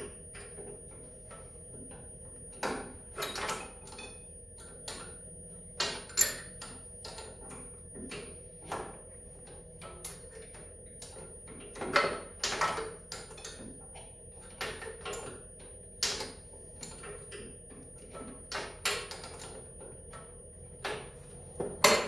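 Hand wrench working on metal engine bolts: irregular short clicks, clinks and scrapes every second or so, a few of them sharper and louder.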